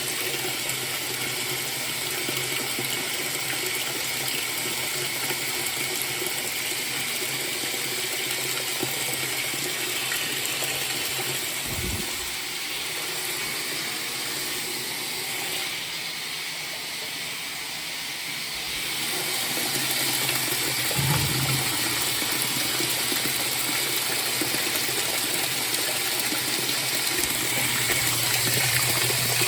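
Frigidaire top-load washing machine filling: water pouring steadily into the tub, dipping slightly in level midway.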